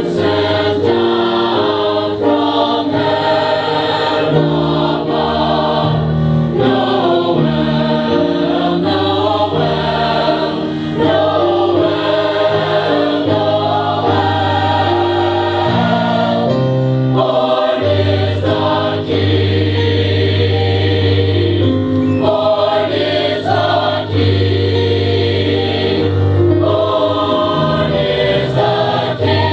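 Choir singing, with many voices in held chords over a sustained low bass line.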